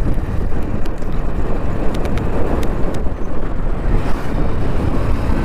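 A vehicle running on the move, with wind buffeting the microphone in a steady low rumble and a few faint clicks.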